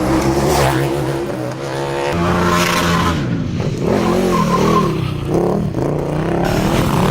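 KTM motorcycle engine revving hard over and over, its pitch rising and falling with each blip of the throttle.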